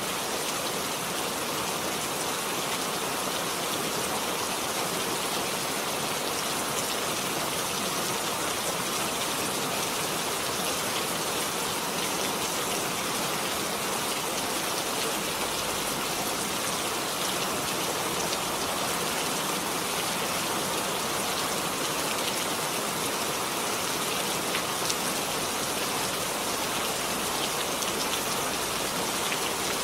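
Steady rain falling, an even hiss of drops with a few faint individual ticks.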